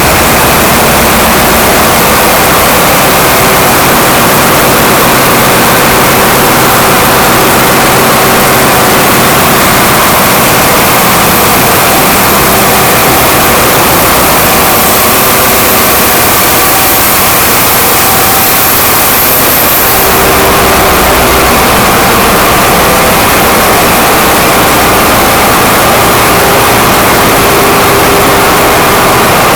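Very loud, steady running of a container ship's engine-room machinery: a dense wall of noise with steady hums and a high whine on top, its mix of tones shifting about two-thirds of the way through.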